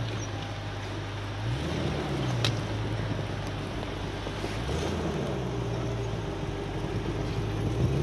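A 4x4's engine running at low revs as the vehicle is driven slowly through an obstacle, revving briefly about two seconds in and again about five seconds in. There is a light click about two and a half seconds in.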